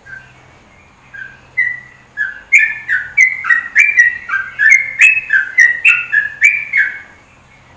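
A songbird singing a phrase of short whistled notes, each dropping in pitch, a few scattered notes at first and then a quick run of about three notes a second that stops about seven seconds in.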